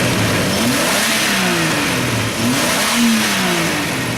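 1993 Jeep 4.0-litre straight-six engine revved twice from idle, the pitch climbing and falling back each time. The engine is at operating temperature, and the seller says it runs excellent.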